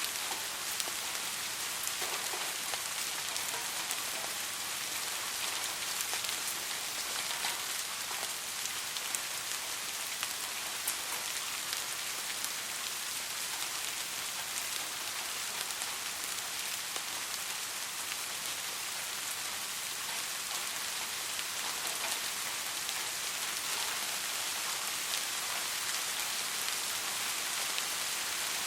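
Steady soft rain falling, an even hiss with scattered drop ticks.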